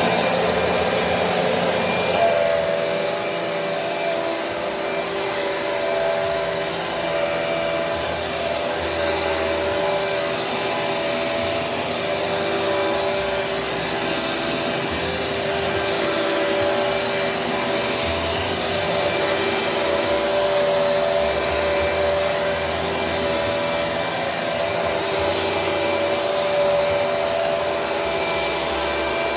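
Vacuum cleaner running steadily as it cleans a floor. Its motor tone settles about two seconds in.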